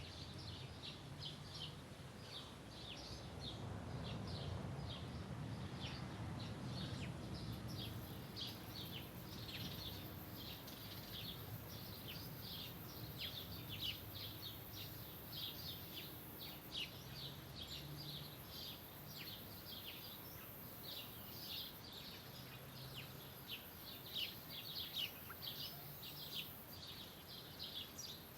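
Small birds chirping continuously, several short high chirps a second, over a faint background hiss. A low rumble swells and fades a few seconds in.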